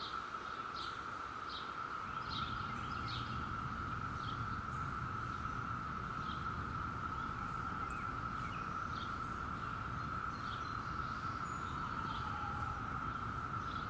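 Chorus of Brood X periodical cicadas giving one steady, high, unbroken drone, with short bird chirps over it in the first few seconds and a low rumble underneath.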